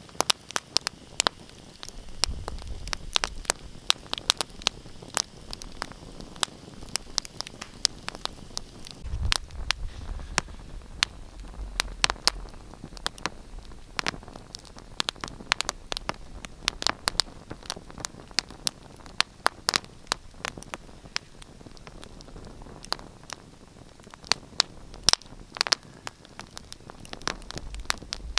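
Wood fire crackling, with many irregular sharp pops and snaps over a soft hiss. A low rumble swells a few times.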